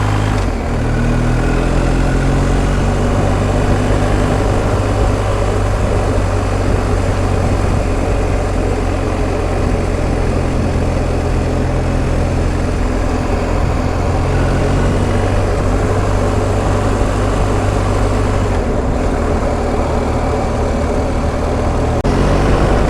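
BMW R1250 GS Adventure's boxer-twin engine running at road speed, with wind rush over the camera. The engine note rises over the first few seconds and shifts about 19 seconds in.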